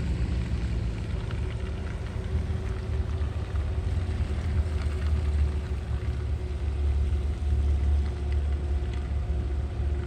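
A car running: a steady low rumble with an even engine hum.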